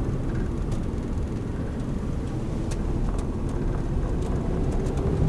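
Camper van driving: a steady low engine and road rumble heard from inside the cab, with a few light clicks and rattles.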